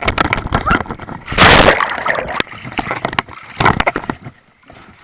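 Pool water splashing and sloshing around an action camera held in the water, with many short knocks on the camera and one loud splash about a second and a half in.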